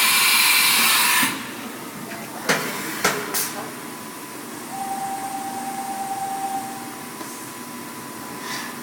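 Mikron Haas VMC1250 vertical machining center running: a loud hiss for about the first second, three sharp clunks between about two and a half and three and a half seconds in, then a steady whine lasting about two seconds, over a faint constant hum of the machine.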